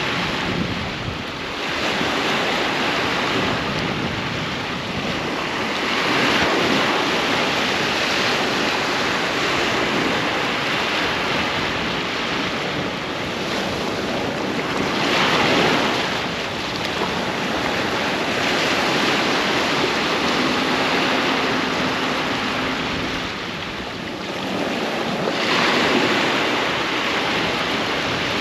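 Ocean waves breaking on a beach: a continuous wash of surf that swells with each breaking wave, about every nine to ten seconds.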